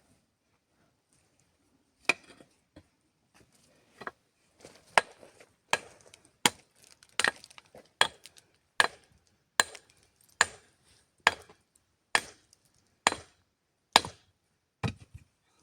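A blade chopping into wood in steady, evenly spaced blows, a little more than one a second, starting about two seconds in.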